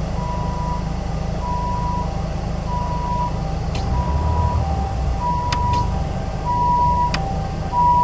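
Steady diesel engine and road noise inside a moving city bus, with an electronic warning beep repeating about once a second in two alternating pitches, a higher and a lower tone, and a few faint clicks near the end.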